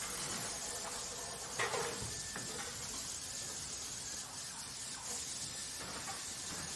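Steady hissing factory ambience, with a single sharp knock about a second and a half in and a few lighter clicks and taps.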